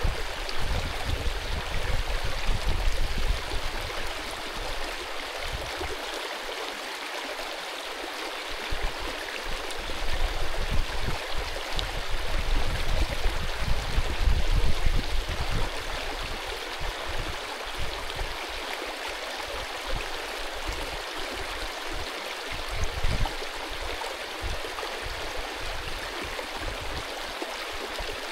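Mountain stream rushing and gurgling over stones in a steady wash of water noise, with irregular low rumbling swells that come and go.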